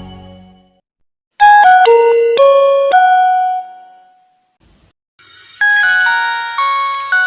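Two short Nokia phone jingles, each a quick phrase of about five bell-like electronic notes, the last note left ringing out. The first starts about a second and a half in, the second about five seconds in.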